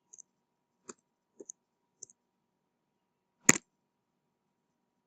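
Light clicking at a computer: a handful of soft, scattered clicks in the first two seconds, then one much louder double click about three and a half seconds in.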